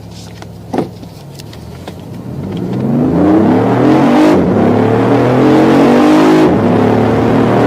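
BMW i8's turbocharged three-cylinder engine running steadily, then accelerating hard from about two seconds in. Its pitch climbs, drops at an upshift about midway, climbs again, and dips once more at a second shift near the end.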